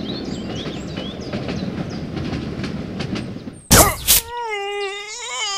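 Steady train rumble with faint chirps and clicks over it, cut by a sudden loud crash a little past halfway, followed by a wavering, voice-like cry.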